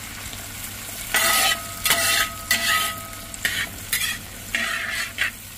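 Sliced onions and spices sizzling in hot oil in an uruli, stirred in repeated scraping strokes about every half second.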